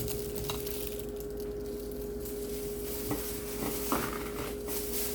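A kitchen utensil clinking lightly against a pot a few times, mostly in the second half, over a steady electrical hum.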